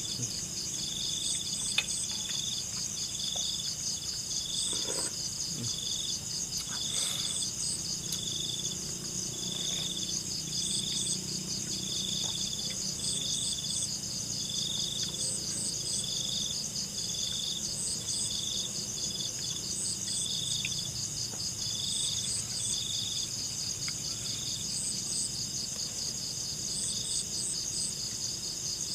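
Night insect chorus of crickets: steady high trilling, over which one call pulses about once a second and short chirps come in threes every couple of seconds.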